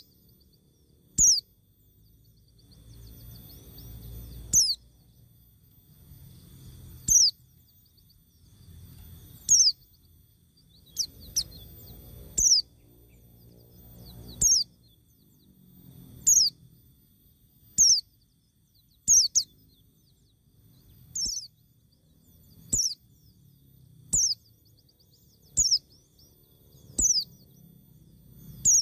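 A bird repeating a short, high call that drops sharply in pitch, about once every one and a half to two seconds, with a faint low background rumble.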